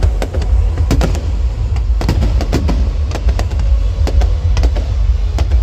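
Fireworks going off in a quick, uneven series of sharp bangs and crackles over loud music, with a heavy, continuous low rumble underneath.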